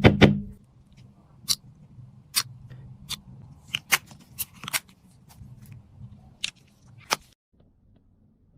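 Small hard objects being handled during makeup repair: a loud cluster of knocks at the start, then about ten sharp, irregular clicks and taps, ending about seven seconds in.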